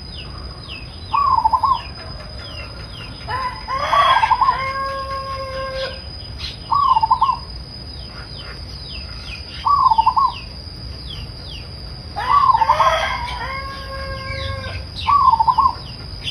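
Zebra doves (perkutut) cooing: short, quick coo phrases every few seconds, and twice a longer phrase of about two seconds that ends in drawn-out notes. A steady high insect drone and small chirps run underneath.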